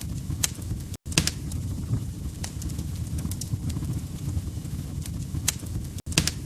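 Log fire crackling: sharp, irregular pops and snaps over a steady low rumble. The sound cuts out for an instant twice, about a second in and near the end.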